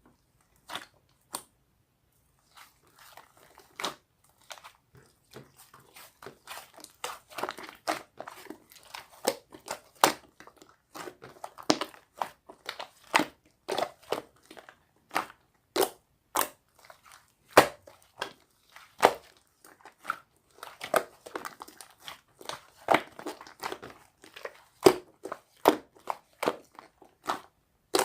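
Slime being squeezed and pressed by hand, giving irregular sharp pops and crackles with a soft squish between them. They come sparsely at first, then several a second from about six seconds in.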